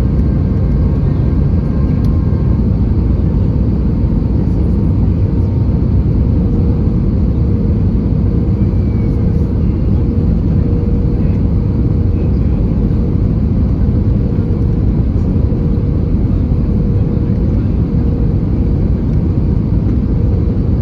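Steady cabin noise inside an Airbus A320-214: the deep, even roar of its CFM56 engines and the airflow, with a steady hum running through it.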